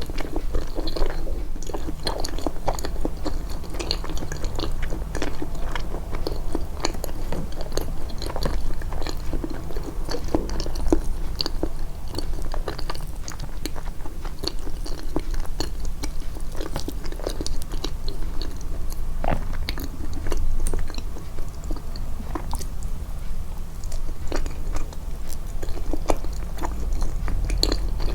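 Close-miked chewing of food, boosted in the edit: a continuous run of wet mouth clicks and soft crunches over a steady low hum.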